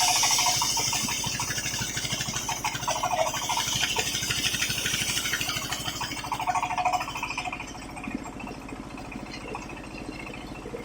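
Engine-driven circular sawmill: the blade cutting through waru wood with a loud hissing rasp that trails off about seven seconds in, leaving the engine and spinning blade running steadily.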